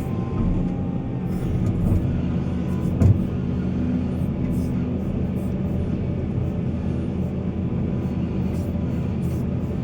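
Heavy diesel engine of mining machinery running steadily, with a single knock about three seconds in.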